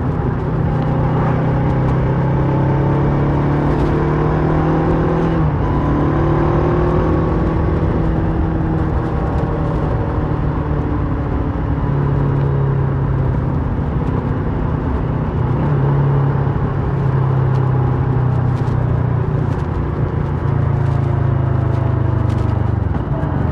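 2008 Kawasaki Versys 650's parallel-twin engine through a Mivv slip-on exhaust, running under way with its pitch slowly rising and falling as the throttle changes. A brief dip in engine pitch and level near the end, as at a gear change.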